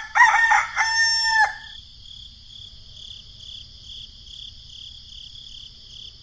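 A rooster crowing once: a few short rising notes and then a long held note, lasting about a second and a half. After it, a faint high chirping goes on, pulsing about twice a second.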